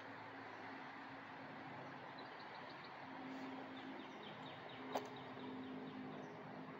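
Quiet outdoor ambience with a steady low hum, and a small bird calling faintly: a rapid series of short falling chirps from about two seconds in to near the end. A single sharp click about five seconds in.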